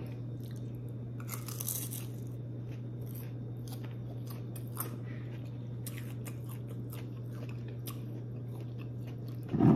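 A person chewing and biting into crisp fried breaded whiting fish, with soft crunches and mouth clicks, a little busier about a second in. A steady low hum runs underneath.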